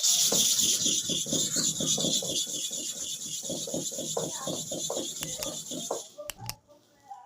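A hair-clipper blade being rubbed against an abrasive sharpening surface in rapid rasping strokes, about five a second, over a steady high hiss. It stops suddenly about six seconds in.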